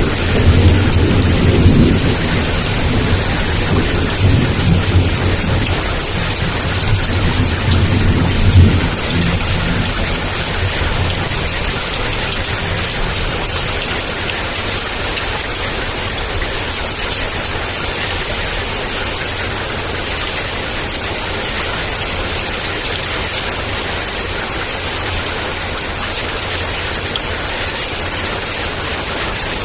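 Heavy rain pouring steadily with a low thunder rumble in the first third, swelling twice and dying away about nine seconds in. After that only the rain continues.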